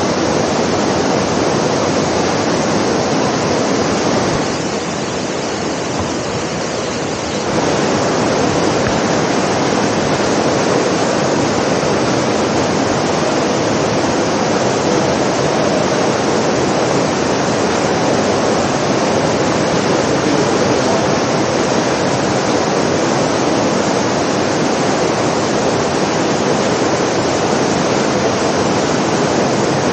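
Artificial indoor rain of the Rain Room installation falling as a steady downpour onto the floor. It dips in level for about three seconds, starting about four and a half seconds in.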